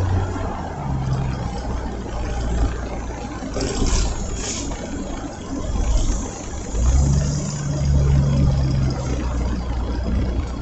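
Car being driven, heard from inside the cabin: a steady low engine and road drone. A brief hiss comes about four seconds in, and a low hum grows louder about seven seconds in.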